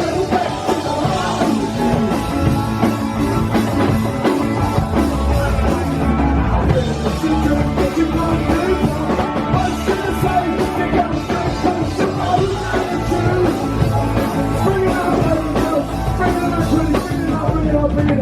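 Live rock band playing a song loudly, with a sung vocal over the instruments.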